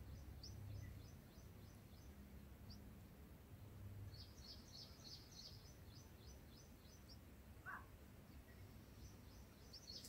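Faint, high, short bird chirps: a few single notes, then a quick run of them for about three seconds in the middle, over a low steady background rumble.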